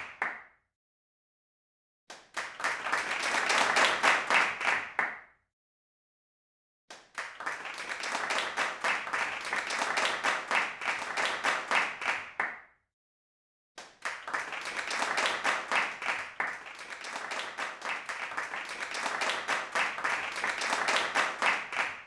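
Crowd applause in separate stretches, each fading out into dead silence: a short burst about 2 seconds in, then longer stretches starting about 7 and 14 seconds in.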